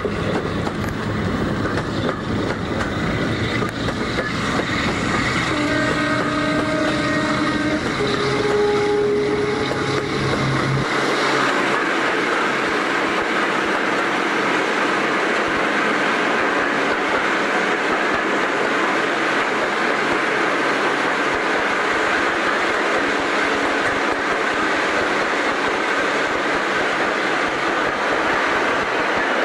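Train running with a steady rumble and clatter from an open coach window, with the locomotive's horn sounding two held notes a third of the way in, a lower one then a higher one. It then runs into a tunnel and the sound becomes a steady, enclosed roar of wheels and carriages.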